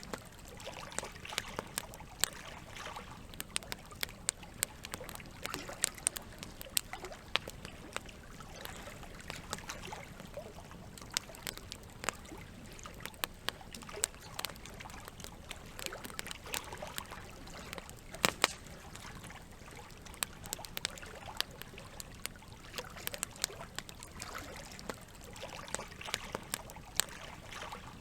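Campfire crackling, with sharp pops scattered irregularly throughout, the loudest about two-thirds of the way through, over a steady trickle of running water.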